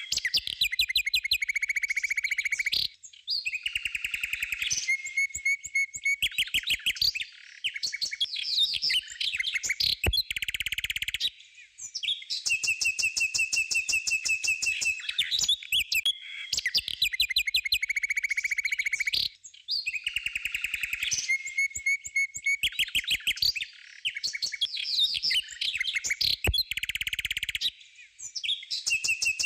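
Bird chirps and rapid trills, high and busy, in a background track that loops roughly every 19 seconds.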